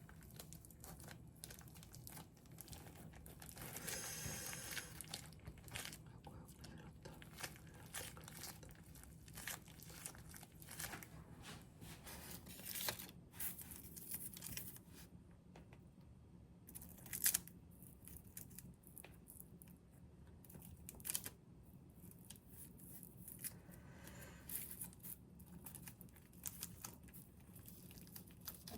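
Quiet kitchen handling sounds: packaging crinkling and tearing, with scattered taps and clicks. One sharp click about 17 seconds in is the loudest.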